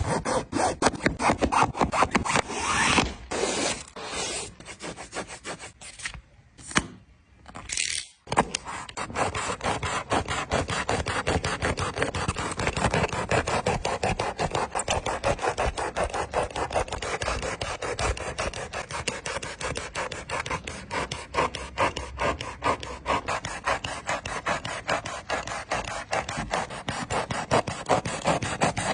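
A sneaker being cut apart with rapid back-and-forth rasping strokes. The strokes come in short runs with brief pauses for the first several seconds, then run on unbroken at a steady fast rate.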